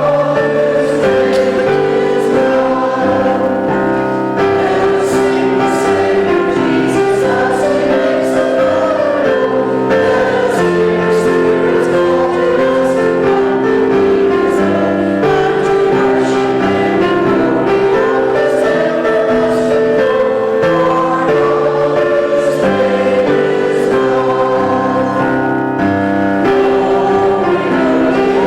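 Congregation or choir singing a hymn with steady, sustained chords.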